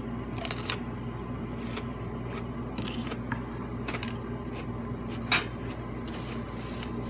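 Person eating fried chicken tenders: quiet chewing with a few short crunches and clicks, one louder about five seconds in, over a steady low hum.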